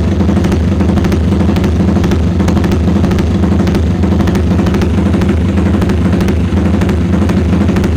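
Yamaha Vixion motorcycle's bored-up single-cylinder engine idling steadily through an aftermarket Lone Rider cone racing exhaust, giving a loud, rapid, even pulsing note.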